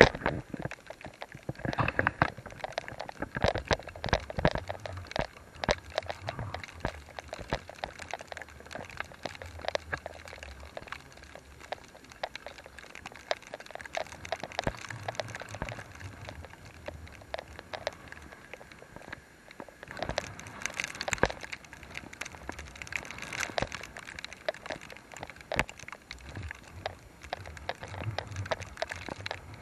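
Rain falling, heard as a dense, irregular stream of drops and small splashes of water.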